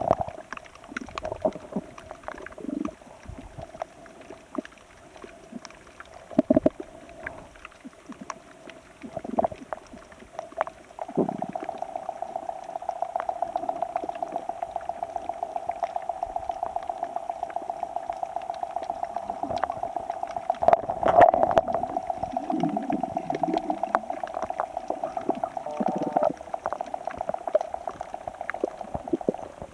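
Sea water bubbling and sloshing in the shallows, full of small irregular pops and splashes. From about a third of the way in, a steady, rapidly pulsing hum joins it and lasts until near the end, with a louder surge of water noise just past the middle.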